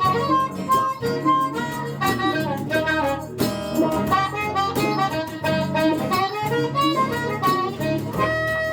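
Blues harmonica solo over strummed guitar accompaniment: quick runs of short notes, settling onto one long held note near the end.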